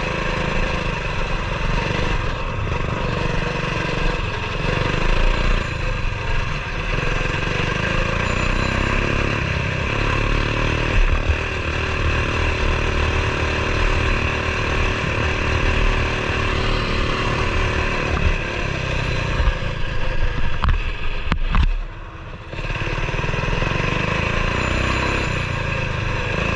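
Coleman BT200X mini bike's single-cylinder 196cc four-stroke engine running while it is ridden, its pitch rising and falling with the throttle. Near the end the sound drops away briefly for about a second, then returns.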